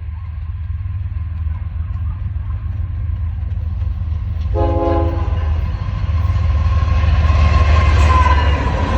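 Union Pacific intermodal freight train approaching: a steady low diesel locomotive rumble that grows louder, with one short horn blast about halfway through.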